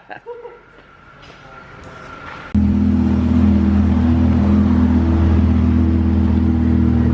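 Lamborghini Huracán's twin-turbo V10 engine idling steadily. It comes in suddenly about two and a half seconds in, after quieter background.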